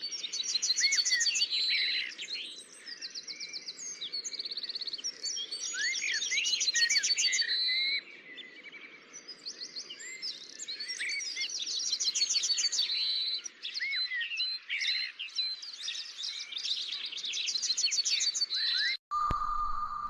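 Several songbirds singing at once, with rapid repeated trills and quick rising and falling whistled notes overlapping throughout. Near the end the birdsong cuts off suddenly and a steady tone takes over.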